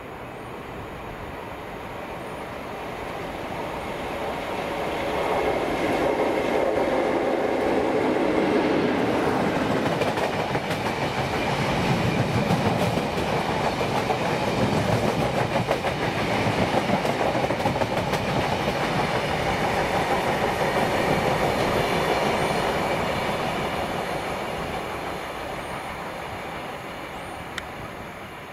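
A train passing close by: the noise builds over the first few seconds, stays loud for about fifteen seconds as it goes past, then fades away.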